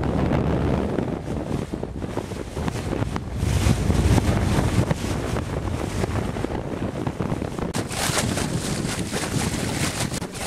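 Wind buffeting the microphone aboard a sailboat under way, over a steady rush of water. A brighter hiss joins in about eight seconds in.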